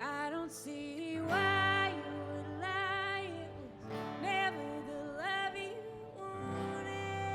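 Live band music: a melodic line with vibrato in short phrases and then one long held note, over guitar and a sustained low bass.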